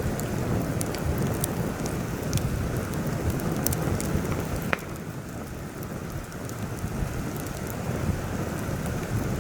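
Heavy wind buffeting the microphone with a low rumble, over a campfire crackling with scattered small pops and one sharper pop about halfway through.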